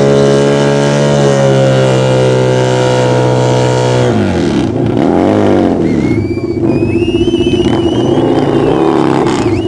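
Car engine held at high revs during a tyre-smoking burnout, a steady held note, then from about four seconds in revved up and down repeatedly. Thin high squealing comes in over it from about six seconds.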